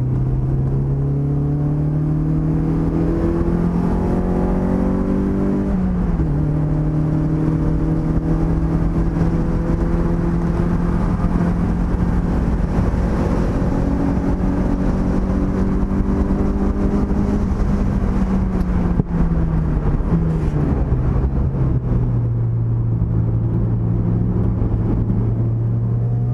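Mazda Miata's four-cylinder engine racing, heard from inside the cockpit. It revs up and shifts up about six seconds in, then climbs slowly at high revs. After about eighteen seconds it winds down in steps through downshifts, then pulls steadily again.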